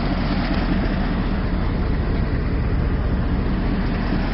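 Engine of a 1998 Dodge Dakota pickup with Lil Red Express-style exhaust stacks, running steadily with a low, even exhaust note.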